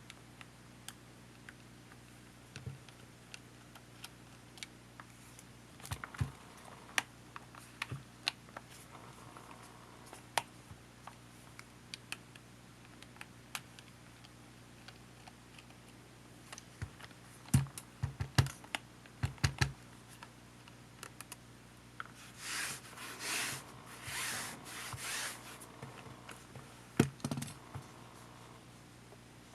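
Scattered small clicks and taps of tools and plastic parts being handled while a Panasonic HA-WA10 camcorder is taken apart. A quick run of clicks comes a little past halfway, then a few seconds of short scraping sounds.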